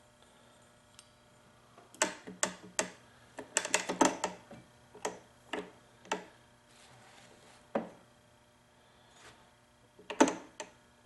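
Irregular sharp clicks and taps, bunched about two to four seconds in with a few single ones after and another cluster near the end: small two-stroke engine parts knocking together as a cylinder is worked down over a piston and its clipped rings.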